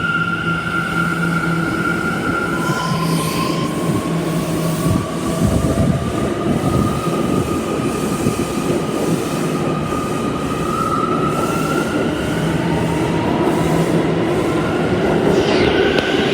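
New York City subway train running on the rails, with rumbling wheel noise and the whine of its motors. About two seconds in, a steady whine gives way to one that rises slowly in pitch as the train gathers speed.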